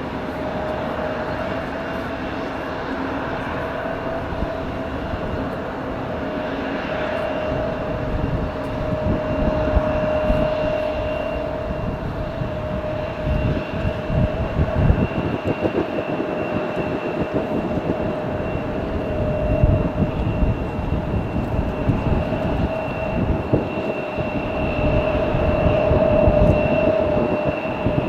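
Jet airliner engines running: a steady two-tone whine over a rumble that swells around the middle and again near the end.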